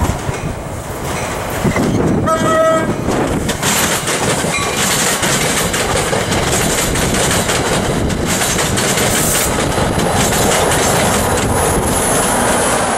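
NJ Transit push-pull commuter train passing close by. A short horn blast comes about two seconds in, followed by the steady rush and clickety-clack of the coaches going by. Near the end the PL42AC diesel locomotive pushing at the rear passes.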